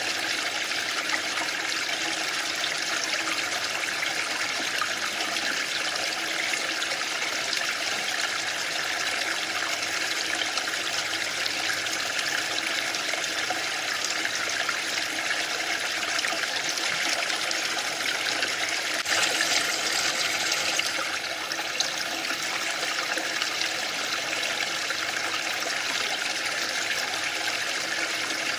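Waterfall rushing steadily, with a brief louder surge about two-thirds of the way through.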